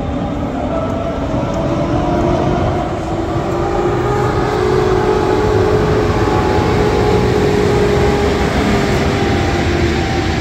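Electric locomotive hauling passenger coaches pulling away from the platform and passing close by: a steady rumble of wheels on rail with a hum that rises a little in pitch as it gathers speed, growing louder and then holding.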